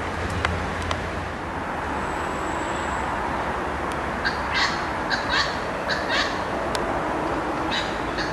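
A bird calling: a quick run of about six short calls starting about four seconds in, then two more near the end, over steady outdoor background noise.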